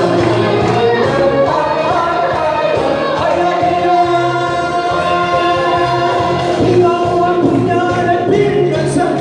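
A Korean trot song sung live by a male and female singing duo, with held, wavering vocal notes over a steady instrumental accompaniment.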